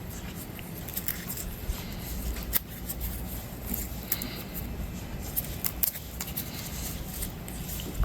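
Scattered light clicks and small metallic rattles of hand tools and parts being handled, over a low steady hum.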